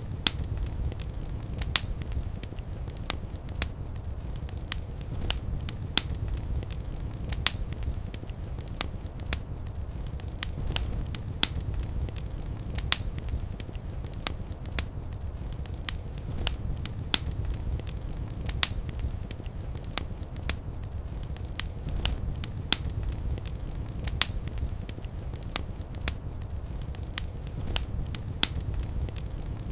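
Wood fire burning in a fireplace: irregular sharp crackles and pops, a few each second, over a low, steady rumble of the flames.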